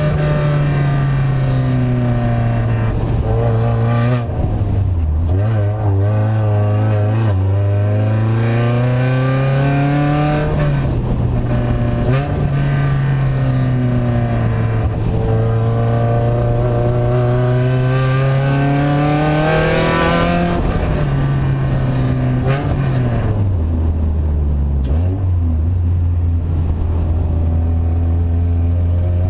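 Vehicle engine with an open, unsilenced exhaust, running loud as its pitch rises and falls with engine speed. The pitch steps down suddenly about four seconds in and twice more near the end.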